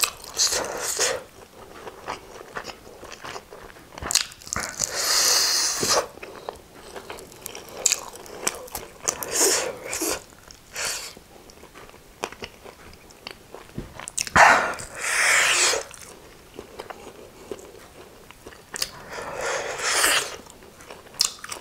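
Close-miked eating of a fried chicken wing: crunching and chewing in bursts of a second or two, about every four to five seconds, with small wet mouth clicks in between.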